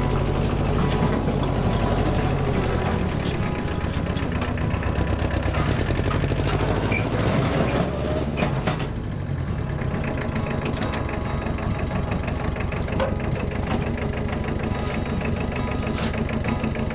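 An engine running steadily with a low rhythmic drone, with a few sharp clicks or knocks about halfway through.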